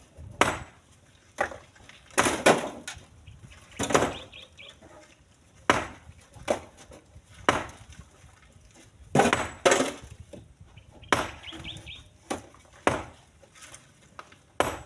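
Split stones thrown one after another into a truck bed, each landing with a sharp knock: about a dozen knocks at uneven intervals, sometimes two close together.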